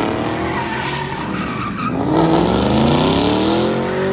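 A car engine revving hard, its pitch sinking and then climbing steeply for about two seconds before dropping off near the end, with tyre squeal from spinning wheels under the revs.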